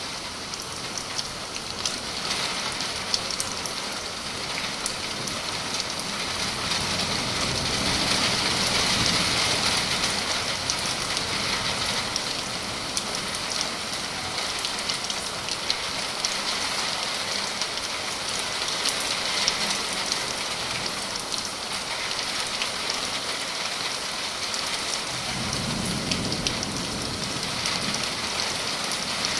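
Steady summer rain falling, a continuous hiss with many individual drops ticking on surfaces. It grows stronger about eight seconds in, then eases, and a brief low rumble rises near the end.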